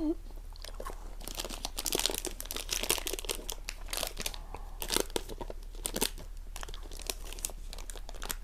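Crunchy chewing of a KitKat wafer bar, picked up close by a clip-on microphone, with crinkling of the bar's metallised plastic wrapper as it is handled near the end.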